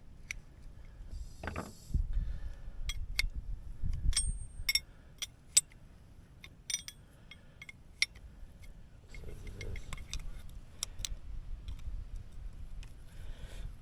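Irregular sharp metallic clicks and clinks of a wrench on a hydraulic quick-connect fitting as it is fitted and tightened, a few of them ringing briefly.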